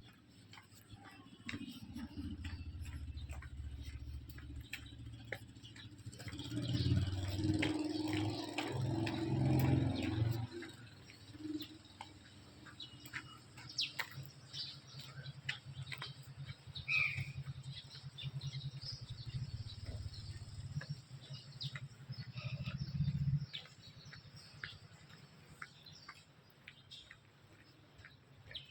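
Birds chirping now and then over a low, steady hum. A louder low rumble comes from about six to ten seconds in.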